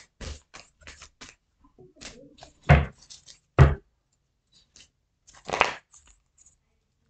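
Tarot cards being handled and shuffled: a run of short papery clicks and brushes, with two much louder slaps about a second apart near the middle.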